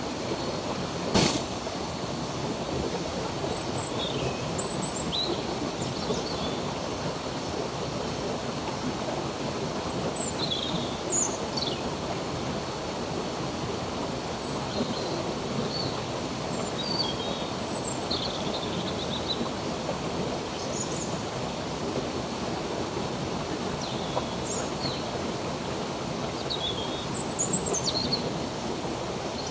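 Steady rush of flowing stream water, with small birds chirping in short, scattered calls over it. A single sharp click about a second in.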